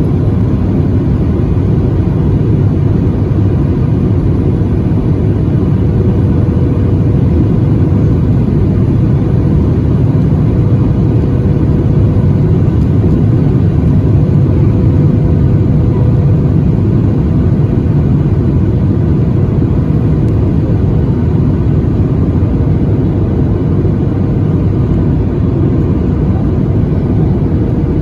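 Steady engine and airflow noise inside the cabin of a Boeing 737-800 on its landing approach, with its CFM56 turbofans running. A faint steady hum sits under a dense, unchanging rush.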